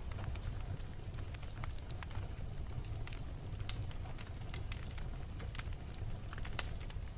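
Wood fire burning in a fireplace: a steady low rumble of flame with irregular sharp crackles and pops from the burning logs, several of them standing out louder.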